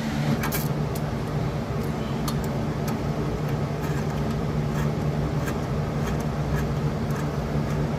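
A steady machine hum, with scattered light metallic clicks and clinks of hand tools working the exhaust manifold bolts.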